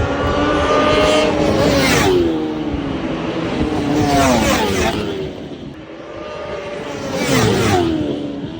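Exhaust of a 1000cc sportbike engine at high revs. The note holds high and then drops steeply in pitch three times, about three seconds apart.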